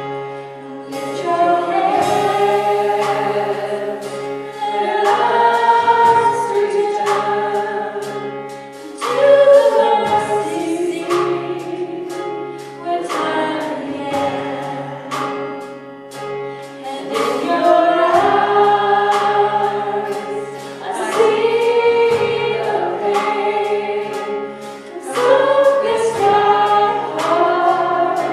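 A choir singing a worship song in phrases over sustained instrumental accompaniment with a regular beat.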